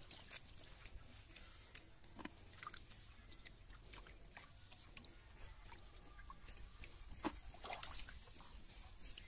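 Faint, irregular wet clicks and small splashes from fish being handled in muddy water, with a few sharper knocks about two seconds in and again near the end.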